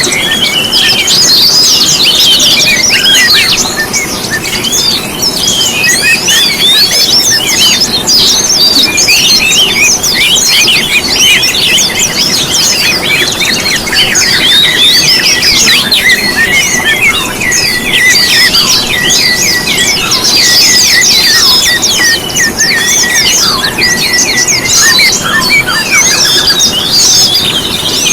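A dense chorus of small songbirds chirping and twittering rapidly over one another, many quick high calls overlapping.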